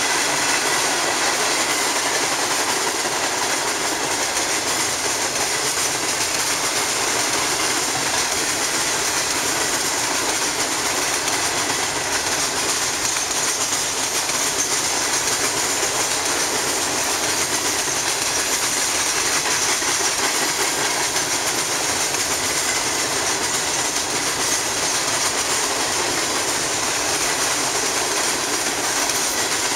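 Empty freight train of open-top coal hopper cars rolling past at speed, steel wheels running on the rails in a steady, unbroken noise.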